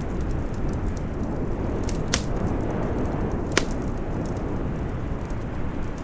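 Steady howling wind of a snowstorm, with a wood fire crackling over it: faint ticks throughout and two sharper pops, about two seconds in and about three and a half seconds in.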